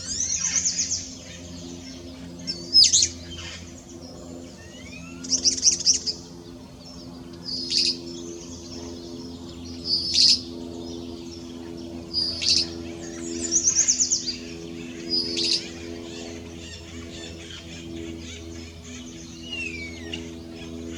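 Red-crowned parrots calling: loud harsh calls about every two seconds, some as single sharp notes and some as quick rattling runs of notes, over a steady low hum.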